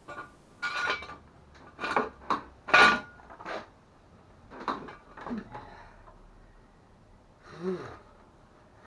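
A string of separate clanks and clatters of hard, metallic-sounding objects being handled, about eight knocks spread out, with a longer, lower scraping sound near the end.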